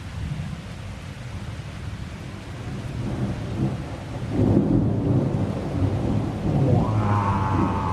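Steady rain with thunder rolling in, building about three seconds in and rumbling heavily through the rest. A steady higher tone sounds over it near the end.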